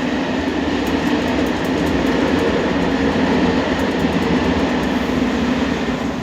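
OTIS GeN2 machine-room-less traction elevator car travelling in its shaft: a steady rumble with a low hum that begins to ease off near the end as the car slows.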